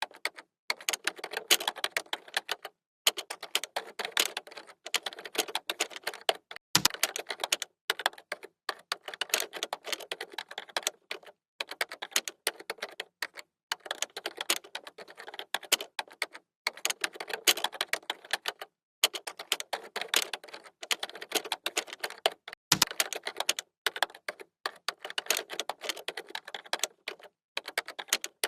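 Fast typing on a computer keyboard: rapid runs of key clicks broken by short pauses, with two heavier, deeper key strikes, one about 7 seconds in and one about 23 seconds in.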